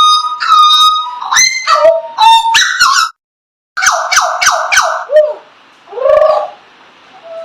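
A bird singing a varied string of loud whistled notes that slide and step in pitch. The song cuts out for about half a second after three seconds, then comes back with a quick run of notes, a falling slide and one rising-and-falling call.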